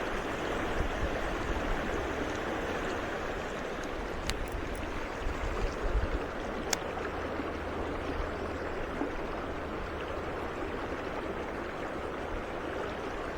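Mountain stream water rushing steadily over rocks, with two faint ticks partway through.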